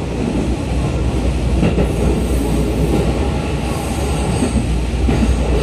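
Running noise heard inside a JR 211 series electric multiple-unit car: the steady rumble of the wheels on the rails, with a faint high wheel squeal joining in about two seconds in.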